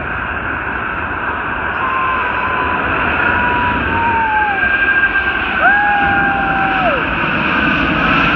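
Airbus A380 jet engines on landing approach overhead: a broad rushing roar that grows steadily louder, with a few thin whining tones that hold and then slide down in pitch.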